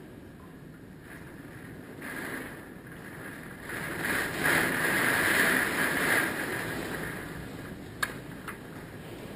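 Hurricane wind blowing in a gust that builds about two seconds in, is loudest around the middle with a hissing whistle, and then dies down. A single sharp knock comes near the end.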